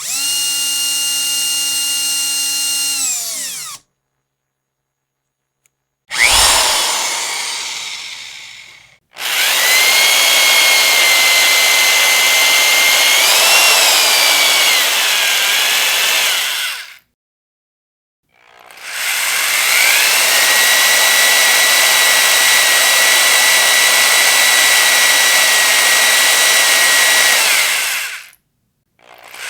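Electric power drill run in three separate bursts with short silences between: each time the motor whines at a steady pitch, and the first burst winds down as it stops. In the second burst the whine wavers briefly, as if the bit takes a load. Between the first and second bursts comes a sudden loud noise that dies away over about three seconds.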